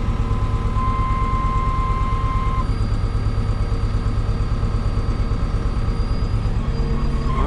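Farm tractor's diesel engine running at a steady pulsing hum, with a thin high whine that steps up in pitch about two and a half seconds in.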